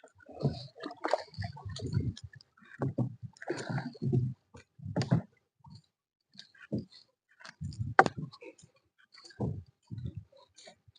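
Water splashing and sloshing in short, irregular bouts, with a sharp knock about eight seconds in.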